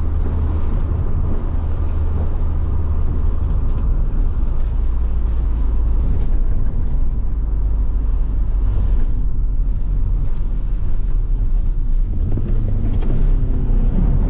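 Nissan 350Z's VQ V6 engine and road noise while driving, a steady heavy low drone.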